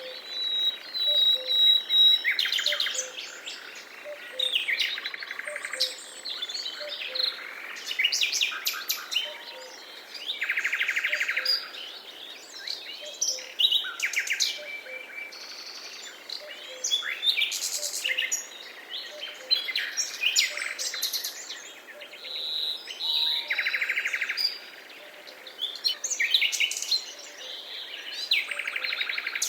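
Forest ambience: several birds singing and calling over one another, with trills and chirps coming and going throughout, and a faint regular pulsing call underneath, about two a second.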